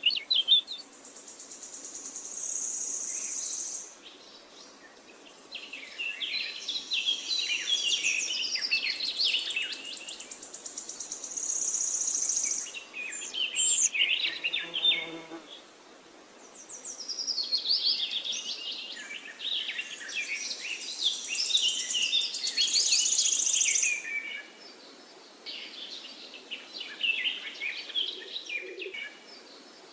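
Several birds chirping and twittering in rapid, overlapping phrases that swell and fade in waves. A high, thin buzzing comes and goes alongside them.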